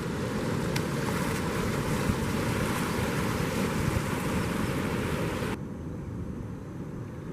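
Surf and rushing water at an estuary mouth with wind buffeting the microphone, a dense steady hiss and rumble. About five and a half seconds in the high hiss cuts off abruptly, leaving a quieter low rumble.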